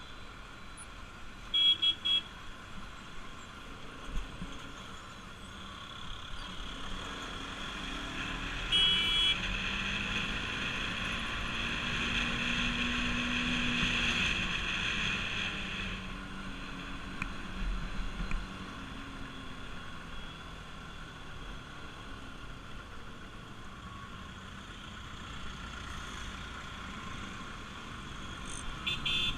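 Riding noise from a Bajaj Pulsar RS200 motorcycle in traffic: steady engine, road and wind noise that swells for several seconds in the middle. Short horn toots sound about two seconds in, around nine seconds, and again near the end.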